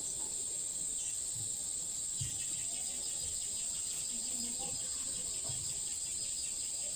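Chorus of rainforest insects keeping up one continuous high-pitched buzz at a steady level, with a few faint low thuds.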